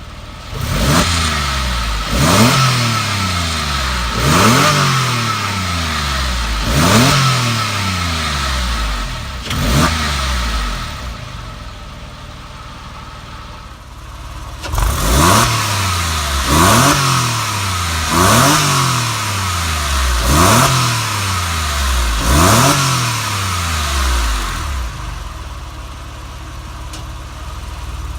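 Porsche 997 911 Carrera's flat-six engine through its stock exhaust, revved in sharp blips that rise quickly and fall away. Ten revs come in two sets of five with a short lull between, and the engine settles to idle near the end.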